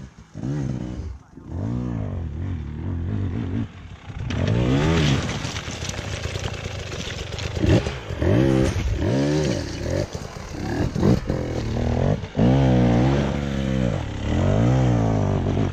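Enduro motorcycle engine revving hard, pitch climbing and falling again several times, as a bike accelerates up a loose slate slope.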